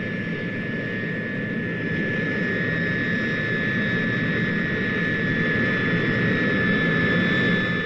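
Turboprop engines of the Tu-95V carrier bomber running after start-up: a steady engine noise with a high steady whine, growing slowly louder.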